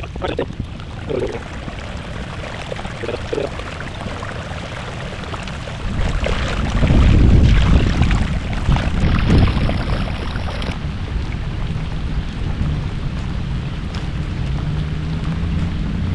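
Rain and wind over open water as a thunderstorm comes in, a steady hiss with a louder low rumble that swells from about six seconds in and eases off around ten seconds.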